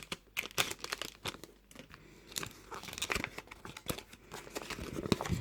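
Toy surprise-egg packaging crinkling and rustling as it is handled, in irregular small crackles and clicks.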